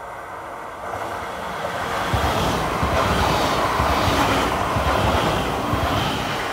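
A train passing close by on the rails: rushing wheel-and-rail noise with a low rumble builds about a second in, holds loud for several seconds, and eases off near the end.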